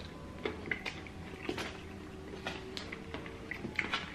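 Close-miked eating sounds: chewing with scattered short clicks and crackles, likely fried food and chopsticks or a fork against food, over a faint steady hum.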